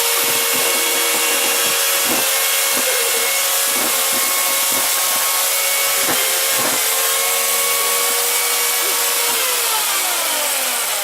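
Chainsaw running at a steady high pitch while cutting into a plastic toy figure, with brief dips and knocks as the chain bites. About nine seconds in the pitch falls away as the saw winds down.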